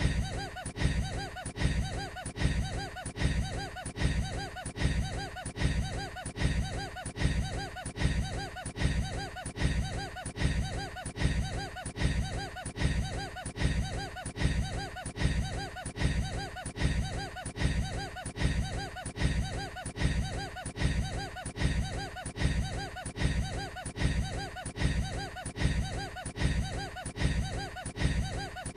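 A man's short, snickering laugh, one clip looped over and over at an even pace.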